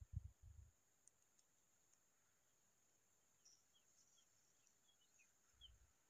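Near silence, with a few faint, short, high bird chirps scattered mostly through the second half over a steady faint high hiss. A low rumble sounds briefly at the start and again shortly before the end.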